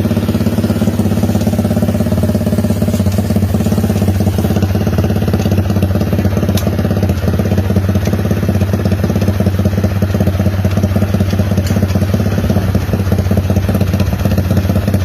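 Motorcycle engine idling steadily through an open aftermarket exhaust, an Aun 'bulate' titanium pipe.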